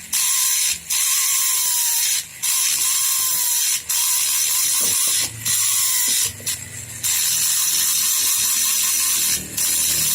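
High-speed grinding tool working metal on a Vespa engine block, running in stretches of a second or so broken by short pauses, its pitch sagging slightly as it bites.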